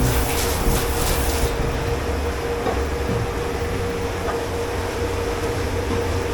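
Water hissing from a spray or machine in a commercial dish pit, cutting off about a second and a half in, leaving a steady low machinery hum with a faint constant tone.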